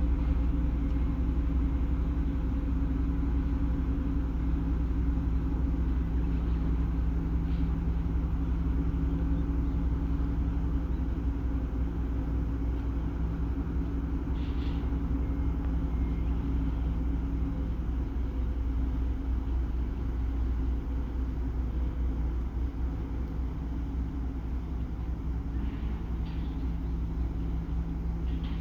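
Ferry engines running, a steady low rumble with a constant hum that eases slightly after about two-thirds of the way through.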